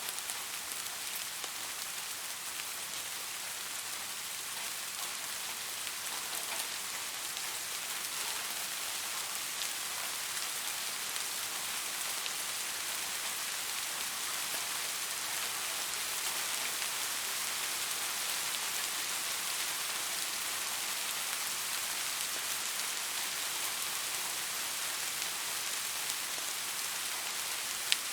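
Steady rain falling, an even hiss with many fine drop ticks, and one sharp drop click near the end.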